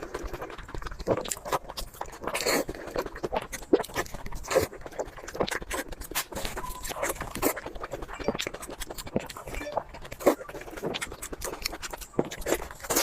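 Close-up eating sounds: a person chewing and smacking food noisily, with a quick, irregular run of wet mouth clicks.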